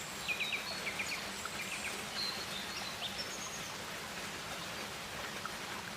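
Tropical rainforest ambience: a steady hiss, with quick repeated high bird chirps in the first second or so and a few thin high calls a little later.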